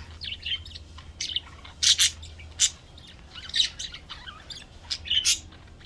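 Several budgerigars chirping and chattering, with sharp louder squawks about two, three and a half, and five seconds in, over a steady low hum.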